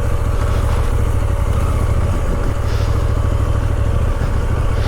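KTM Duke motorcycle engine running steadily at low revs, with no revving up or down.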